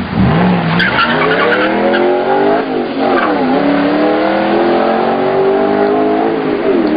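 A car engine accelerating hard, its pitch climbing through a gear, then a quick drop at a shift about three seconds in, and climbing again before easing off near the end. There is a short burst of tyre squeal about a second in.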